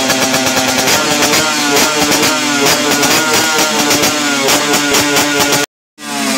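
Yamaha RXZ two-stroke single-cylinder motorcycle engine revved in repeated quick blips through an aftermarket 'kolong cobra' underslung exhaust, the pitch rising with each blip. The sound cuts out abruptly for a moment near the end and then returns.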